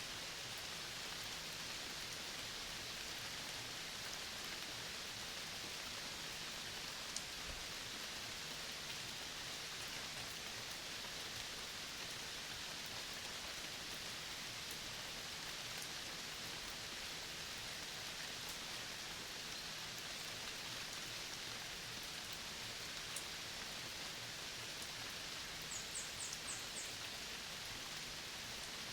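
Steady, even hiss of a forest nature ambience, with a quick run of about five short, high chirps near the end.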